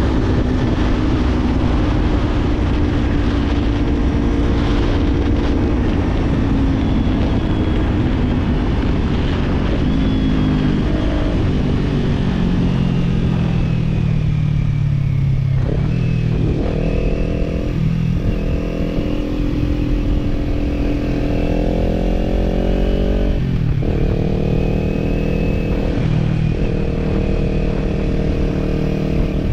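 Kawasaki parallel-twin motorcycle engine with a slip-on exhaust, heard from the bike while riding, with wind noise. It holds a steady pace, drops in revs about halfway through, then pulls away again: the pitch climbs and falls back at two upshifts in the last third.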